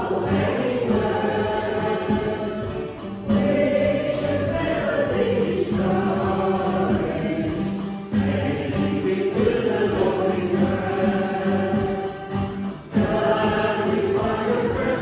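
Church congregation singing a hymn, in phrases with short breaks between them.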